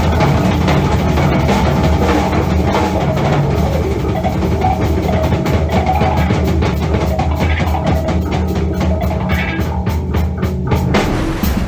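Drum kit solo played live: bass drum and strokes across drums and cymbals, quickening in the second half into a rapid run of hits that stops shortly before the end.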